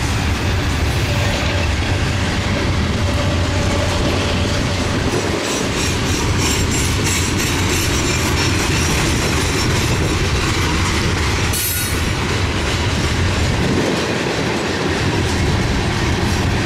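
Freight cars rolling past at close range as the train picks up speed: a steady rumble of steel wheels on rail with the rapid clicking of wheels over rail joints. A brief high squeal cuts in about twelve seconds in.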